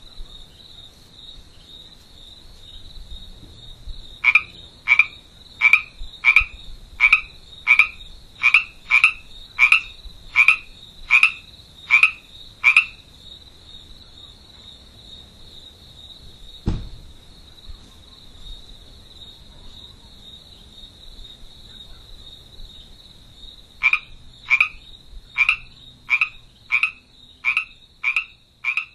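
A frog calling in quick runs of short croaks, about two a second, in two bouts, over a steady high-pitched tone. A single sharp click comes about halfway through.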